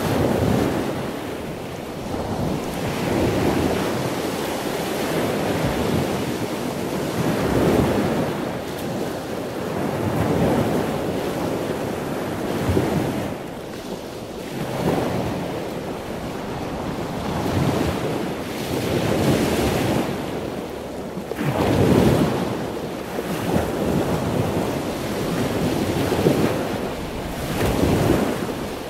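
Sea waves breaking and washing in, a rushing noise that swells and falls away every few seconds.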